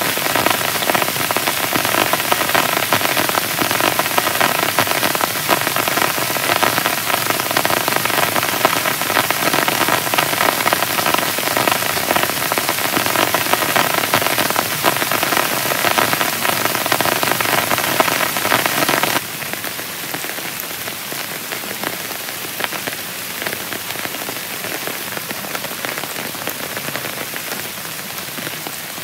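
Heavy rain pattering steadily on a tent. About two-thirds of the way through, the sound suddenly drops to a quieter, softer rain.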